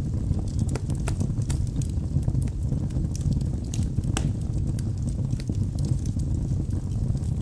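Wood fire burning in a fireplace: logs crackling and popping irregularly over a steady low rumble.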